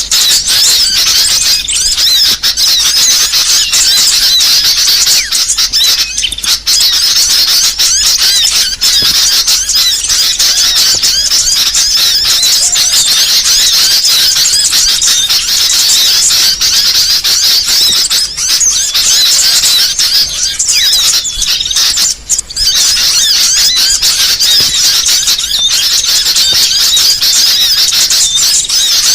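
Dense, unbroken chattering and twittering of many small songbirds, high and busy, a mix of small-bird calls used as a lure and master recording for songbirds. It dips briefly about twenty-two seconds in.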